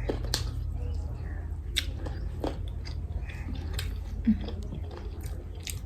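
A person chewing and eating close to the microphone, with irregular small wet clicks and smacks, over a steady low hum.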